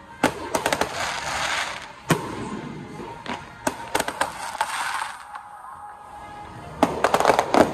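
Fireworks going off in quick clusters of sharp cracks and pops, each followed by a crackling fizz. There is a dense cluster about a second in, scattered single bangs through the middle, and another dense cluster near the end.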